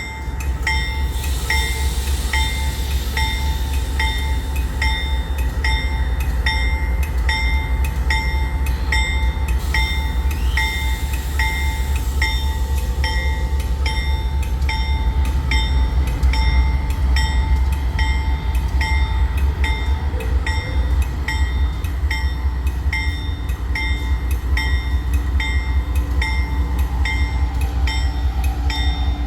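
A freight train running past with a heavy, steady low rumble, over which a high ringing tick repeats evenly about twice a second.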